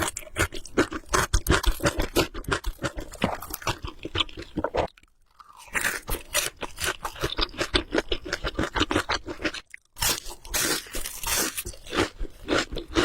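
Close-miked eating: steady chewing with many crisp, wet crunching clicks, pausing about five seconds in and again briefly near ten seconds.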